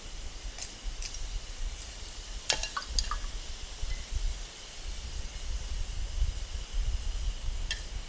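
Firewood being split and handled by hand: a few scattered sharp wooden knocks and clicks, the sharpest pair about two and a half to three seconds in, over a steady low rumble.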